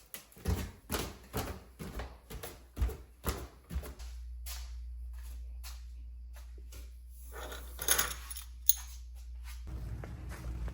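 About a dozen sharp clicks and knocks in quick succession, like handling keys and controls inside a car cabin. A steady low hum then sets in, with a few more clicks about eight seconds in, and the hum grows fuller just before the end.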